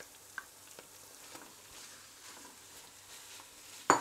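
Minced meat and onions sizzling quietly in hot oil in a frying pan, with a few light clicks and scrapes of a wooden spoon. One sharp knock just before the end.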